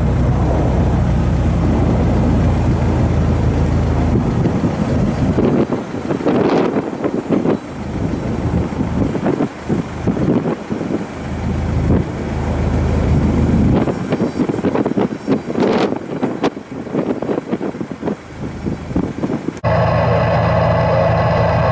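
Jet airliner engine noise at the airfield, swelling and fading unevenly, over a steady low hum at the start. The sound changes abruptly just before the end.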